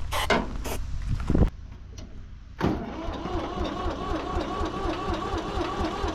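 Tractor engine being cranked by its starter: a rhythmic, churning mechanical sound that starts suddenly about two and a half seconds in and keeps going without catching yet. Before it, a few clanks and scrapes and a thump.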